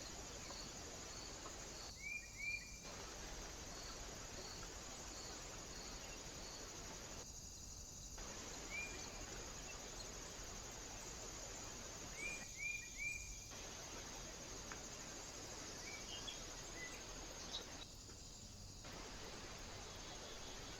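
Steady high-pitched insect chirring over a constant hiss. Short bird chirps break in as a quick group of three about two seconds in, once more near the middle, and as another group of three soon after.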